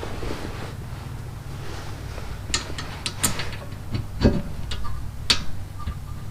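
A run of sharp clicks and clinks from brake parts and hand tools being handled, with a dull knock about four seconds in and a last sharp click just after.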